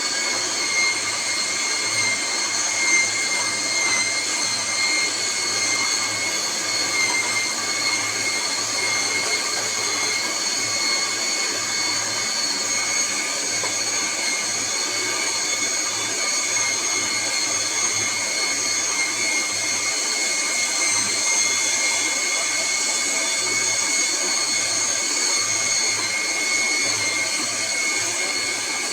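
Electric juicer motor running steadily, a continuous whirring noise with a faint high whine.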